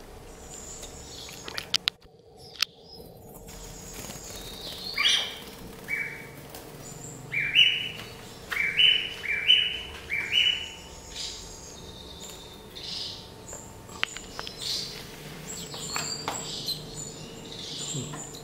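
Small bird chirping: a run of short, quick chirps, about six close together in the middle, with fainter higher calls around them.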